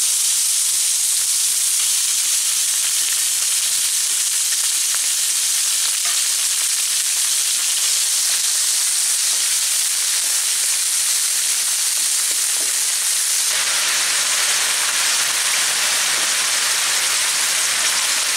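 Raw chicken mince frying in hot oil in a non-stick frying pan: a steady, loud sizzle. About two-thirds of the way through, the sizzle becomes fuller and deeper.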